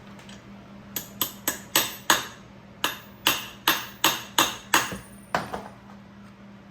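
Hammer blows on metal during motorcycle disassembly, about a dozen sharp strikes in quick succession in two runs with a short pause between. Each blow rings briefly.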